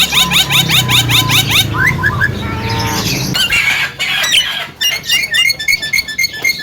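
Young Javan myna singing a varied song: a fast run of rising chirps, then assorted calls, a harsh noisy stretch and a string of short repeated notes.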